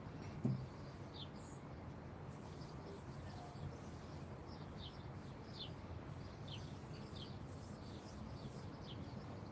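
Small birds chirping: many short, high chirps, each dropping in pitch, scattered over a steady low rumble. A soft thump about half a second in.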